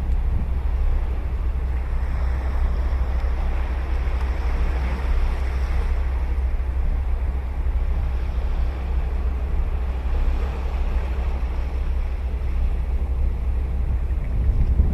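Ocean surf breaking and washing on a beach, one wash swelling and fading in the first half, with a steady low rumble of wind on the microphone underneath.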